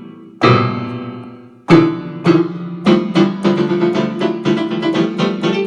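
Background music: a piano strikes a few chords that ring and fade, then plays quicker repeated notes from about three seconds in.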